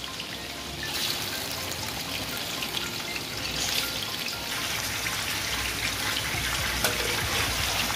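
Raw chicken pieces sizzling in hot oil in a steel karahi as they go in, a steady hiss that grows louder about a second in.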